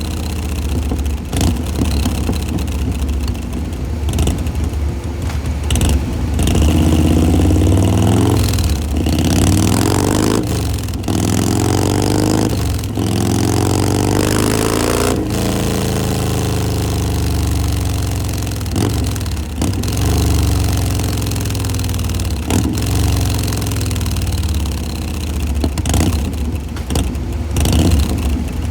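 Harley-Davidson V-twin engine breathing through a Bassani Road Rage 3 exhaust, idling and being revved several times, its pitch rising and falling with each throttle blip.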